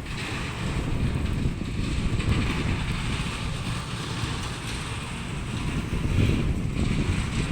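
Low, rumbling noise of wind buffeting the microphone, rising and falling without any clear rhythm.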